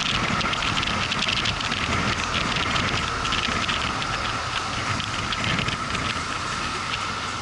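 Motorcycle on the move, its engine running under steady wind and road noise.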